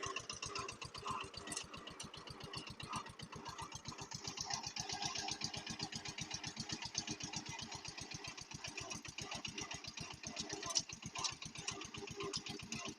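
Eicher 242 tractor's diesel engine running steadily with an even, rapid pulsing beat.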